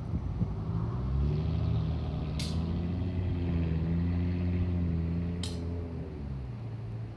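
A heavy vehicle's engine running, a low pitched hum that swells about a second in and fades near the end, with short sharp hisses about every three seconds.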